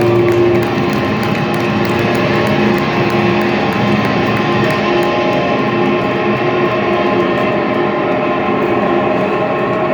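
Amplified electric guitars of a live rock band holding sustained, ringing chords, steady and loud with no clear beat.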